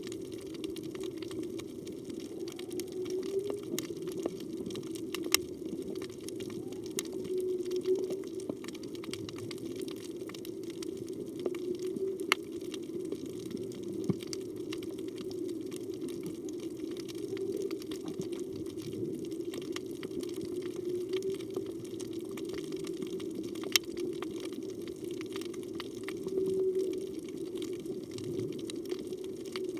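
Underwater ambience on a reef: a steady low rushing hum, with scattered sharp clicks and small swells every few seconds.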